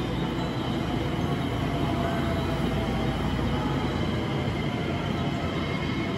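Electric train pulling slowly into the station platform: a steady low rumble of wheels on rails, with a faint high whine.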